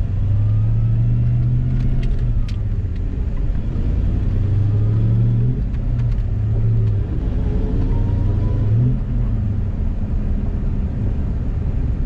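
A car's engine and road noise heard while driving: a steady low drone that shifts slightly in pitch as the speed changes, with a few faint ticks about two seconds in.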